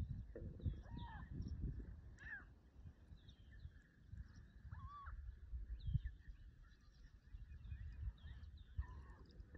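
Faint bird calls: a handful of short arched notes scattered through, over a steady low rumble.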